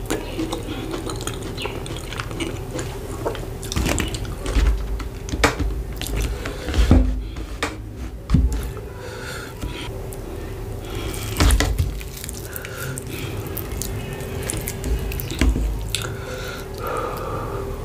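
Close-miked wet chewing of fufu with egusi and black soup, with many sharp wet mouth clicks and squishes and a few low thumps.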